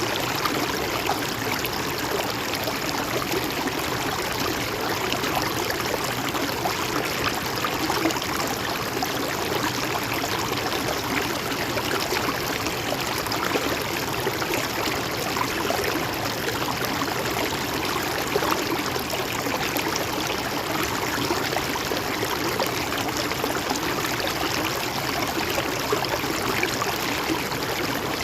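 Mountain stream running steadily over rocks, an even rush of water with small trickles and splashes in it.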